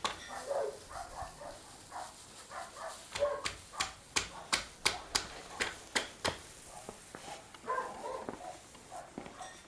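Irregular sharp metallic clinks and knocks, about a dozen, densest in the middle few seconds, from hand tools and parts being handled during tractor repair work.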